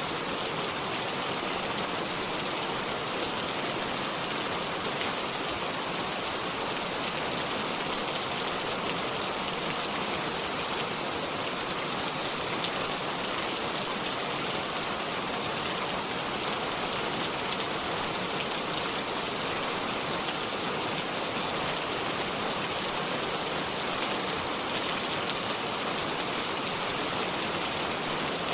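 Steady rainfall: a dense, even hiss of many fine drop patters, holding at one level.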